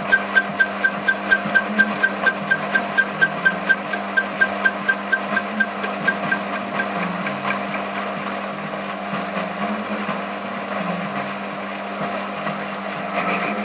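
Emco Unimat 3 lathe running a flycutter through a steel blank under power feed: a sharp tick each time the single cutter strikes the work, about four to five a second, over the steady hum of the machine. The ticks fade out about seven seconds in, leaving only the hum.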